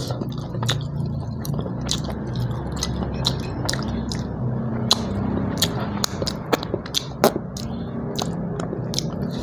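A man chewing a mouthful of food with his mouth working noisily: irregular sharp smacking clicks, two or three a second, over a steady low hum.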